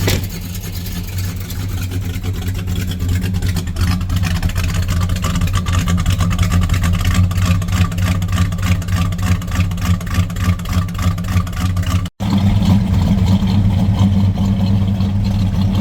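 Car engine idling steadily on a cold morning, a low, even drone. About twelve seconds in the sound cuts out for an instant and the idle comes back louder.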